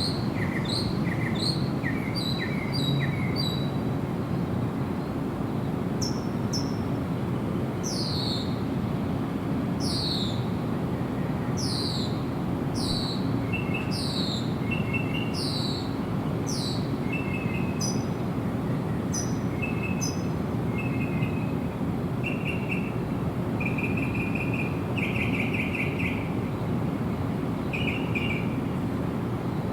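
Several birds singing. First comes a run of quick repeated chirps, about three a second; then a string of clear notes that sweep downward, about one a second; then short trilled notes, all over a steady low background hiss.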